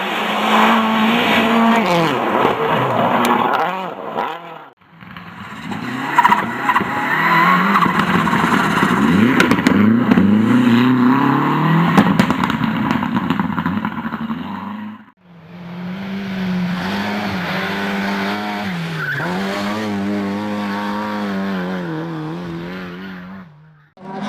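Racing car engines at high revs, in three separate shots cut together. In the middle shot the engine note climbs repeatedly through the gears; in the last it holds a fairly steady pitch that wavers slightly.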